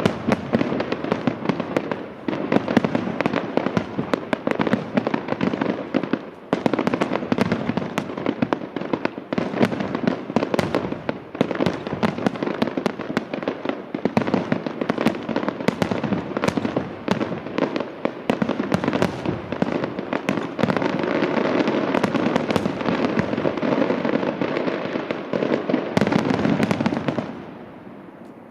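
A fireworks display firing in a dense, continuous barrage of overlapping bangs and crackles. It dies away suddenly about a second before the end.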